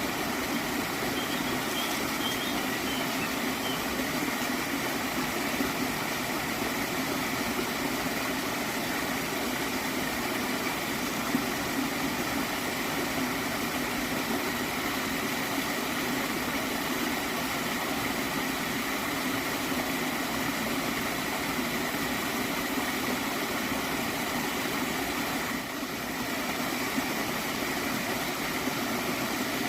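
A water stream flowing steadily with a gentle gurgle, an even, continuous rush.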